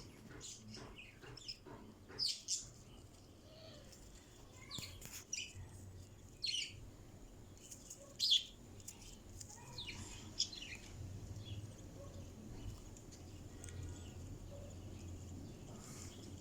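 Budgerigars chirping: short, scattered calls, several close together in the first ten seconds or so, then fewer and fainter.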